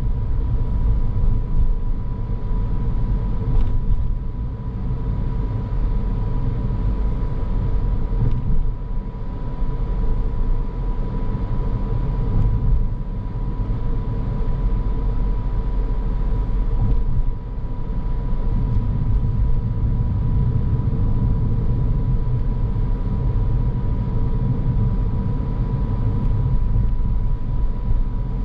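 Car driving along: a steady low rumble of engine and tyre noise, with a faint steady high tone running through it.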